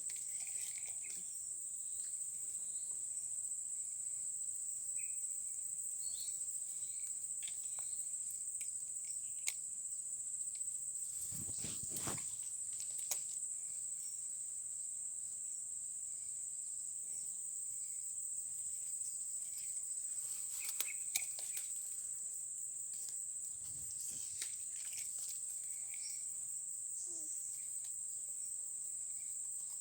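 Insects, crickets or similar, trilling in one steady high-pitched chorus, with a few scattered faint knocks and a brief rustle about twelve seconds in.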